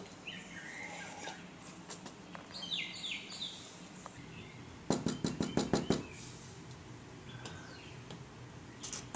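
Faint bird chirps outdoors, including a short descending phrase, with a quick run of about eight sharp taps a little past the middle.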